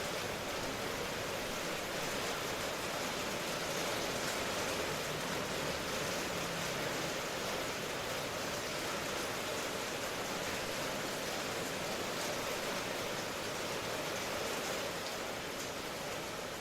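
Steady rain, an even unbroken hiss with no single drops, thunder or other events standing out.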